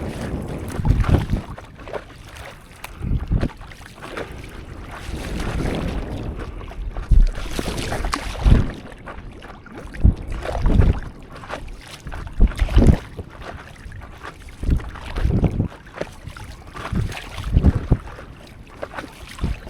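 Water splashing and sloshing around a stand-up paddleboard at sea, in uneven surges every one to three seconds, with wind buffeting the microphone.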